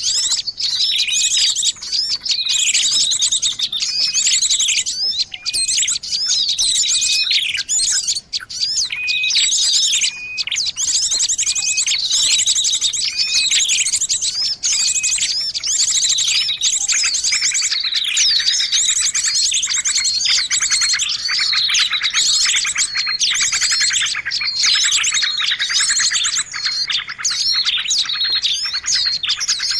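Bird-lure recording of many small songbirds calling at once, a dense mix of overlapping chirps and high trills. Short repeated notes stand out early on, and a thicker trilling chorus fills in about two-thirds of the way through.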